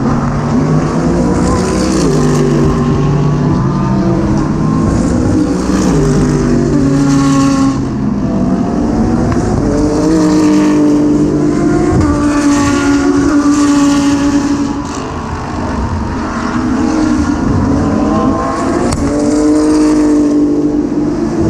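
GT race car engines running hard at racing speed, their pitch climbing and dropping repeatedly through gear changes. The sound eases briefly about two-thirds of the way through, then builds again.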